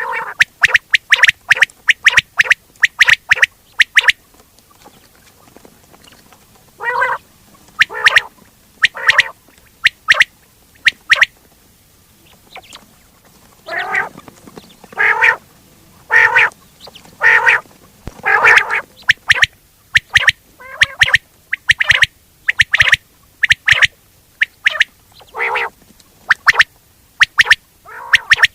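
Quail calling: a long run of short, sharp notes, some single and some in quick clusters, with gaps of about a second between groups, played loud as a hunting lure call.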